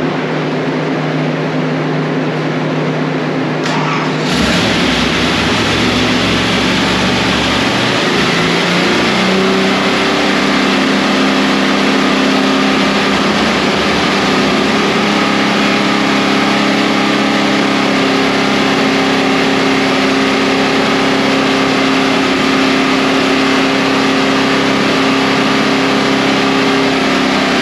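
675 hp small-block Chevy V8 running on an engine dyno: steady at first, then suddenly louder about four seconds in and stepping up to a higher engine speed a few seconds later, which it holds steadily.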